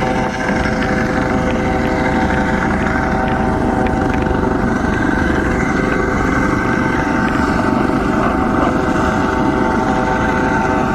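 Coast Guard helicopter hovering close by: a loud, steady mix of turbine whine and rotor noise.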